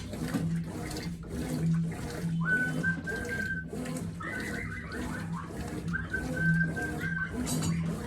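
Consul 9 kg top-load washing machine agitating a wash load, the water and clothes sloshing in a steady rhythm about twice a second. A high whistle-like tone is held for about a second three times over it.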